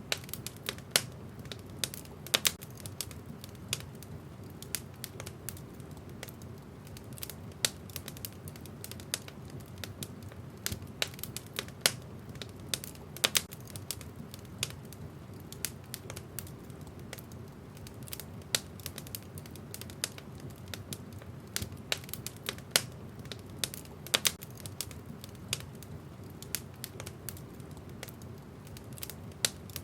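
Wood fire burning in a fireplace, crackling with frequent irregular sharp pops and snaps over a low steady rumble of the flames.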